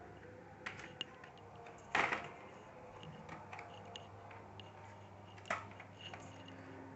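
Plastic clips of the HP Compaq CQ40 laptop's palmrest casing snapping loose as a card is worked along the seam to pry it open: a few sharp clicks and cracks, the loudest about two seconds in, with small ticks and scrapes between.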